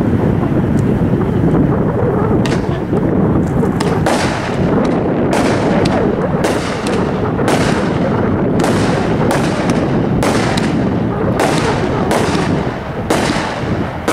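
A 500-gram consumer firework cake firing: a continuous crackling roar, with sharp reports from about two and a half seconds in that come about one to two a second from about four seconds on.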